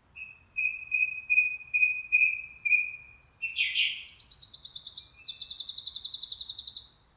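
A songbird singing one song phrase: a run of about six clear whistled notes, then a quick buzzy note sliding down, then two rapid trills, the second higher and faster, ending near the end.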